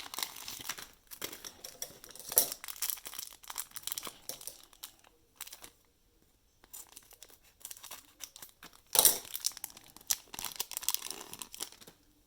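Trading card pack wrappers being torn open and crinkled: irregular crackling in bursts, pausing briefly in the middle, with the loudest crinkling about three quarters of the way through.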